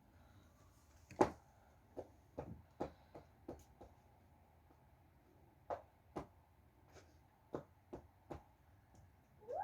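A dozen or so sharp, irregular knocks and taps in a quiet room, the loudest about a second in, with a short rising pitched sound at the very end.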